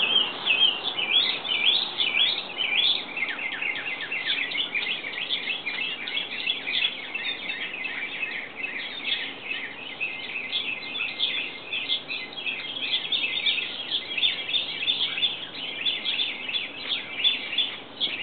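Birds chirping continuously: many short, high notes crowding over one another without pause.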